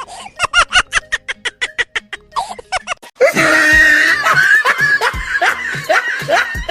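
Laughter in quick, even ha-ha bursts, then louder and denser from about three seconds in.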